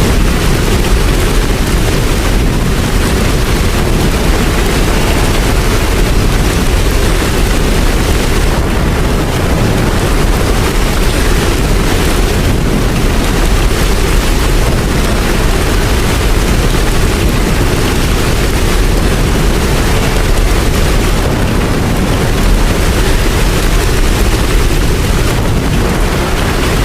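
Steady rain falling, a dense even noise with a deep low rumble.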